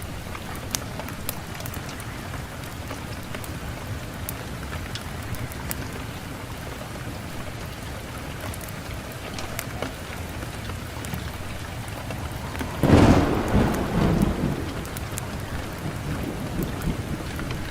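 Wood fire burning in a fireplace: a steady low rush with scattered sharp crackles and pops, and one louder burst lasting about a second and a half near the end.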